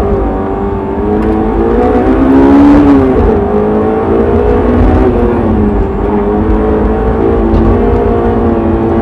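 Honda S2000 (AP1) F20C 2.0-litre four-cylinder engine driven hard on an autocross run, heard from inside the car: the engine note climbs and falls as the driver accelerates and lifts, peaking about two and a half seconds in, over a low rumble.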